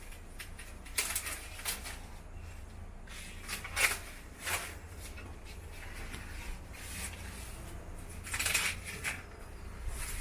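Rustling and crackling of corn plant leaves and husks being handled, in several short bursts.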